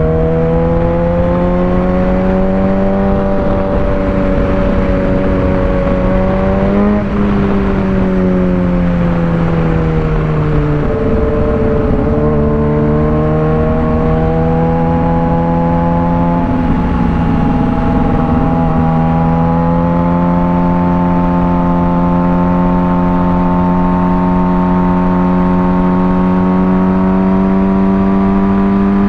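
Suzuki GSX-R600's inline-four engine running under way, its note sagging gradually after about seven seconds and briefly breaking near eleven seconds, then holding steady and climbing slowly as the bike cruises. Rushing wind noise runs underneath.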